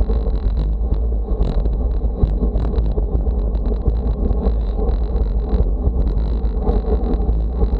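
Wind buffeting the microphone: a steady, heavy low rumble with no pauses.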